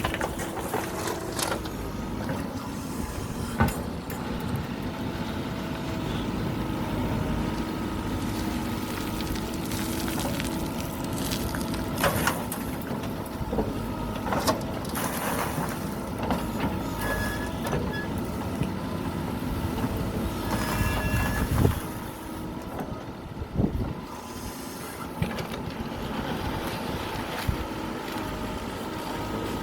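Mahindra backhoe loader's diesel engine working steadily under load, a held engine tone over a low rumble, with scattered sharp knocks and clatter of the bucket and gravel. The engine drops back for a few seconds about three quarters of the way through.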